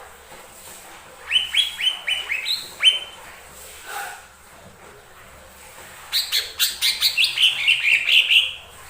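Cucak ijo mini, a small leafbird, singing in two bursts of sharp chirps: a run of about six notes a little after a second in, then a faster run of a dozen or so notes from about six seconds in, ending shortly before the end.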